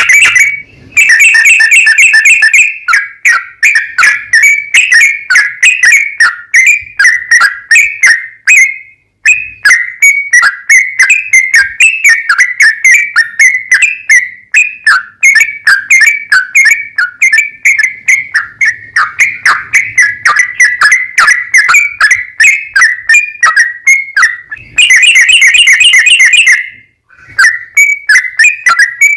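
Yellow-vented bulbul (trucukan) singing loudly: a long, unbroken run of short bubbling notes, several a second, with denser, fuller phrases near the start and again about 25 seconds in.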